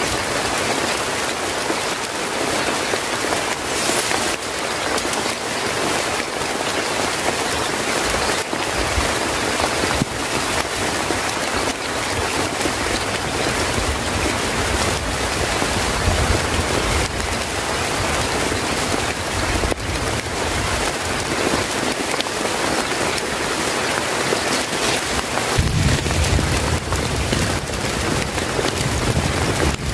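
Steady heavy rain falling on a surface, a dense patter of drops, with low rumbles coming and going in the second half.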